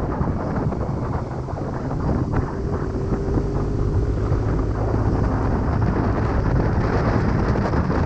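Wind buffeting the microphone during a motorcycle ride, over the steady rumble of engine and road noise. A faint steady hum comes through for a couple of seconds in the middle.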